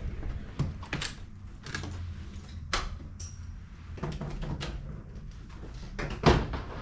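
A series of sharp knocks and clunks over a steady low rumble, the loudest about six seconds in.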